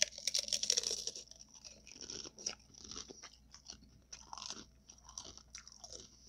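A person biting into a taco close to the microphone, loudest in the first second, then chewing it with many small crackles and mouth sounds.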